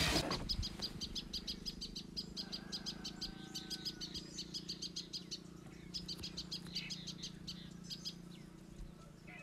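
Oil sizzling in the frying pot cuts off just after the start. Then small birds chirp in quick runs of short, high chirps, over a faint low steady hum.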